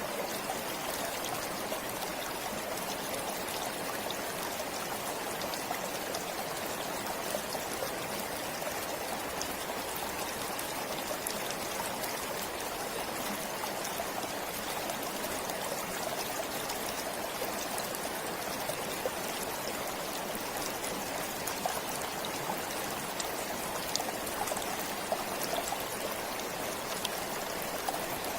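Forest stream flowing steadily, with small splashing and trickling over its bed.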